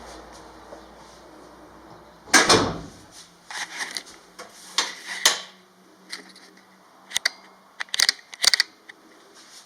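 Someone stepping up and opening a cabin door: a heavy thump about two seconds in, then a scatter of knocks and sharp latch-like clicks.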